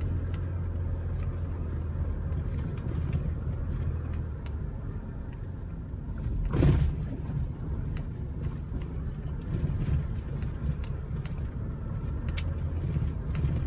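Engine and road noise of a small 1-ton truck, heard from inside the cab while it is driven with a heavy load. It is a steady low rumble, with one brief loud burst of noise about six and a half seconds in.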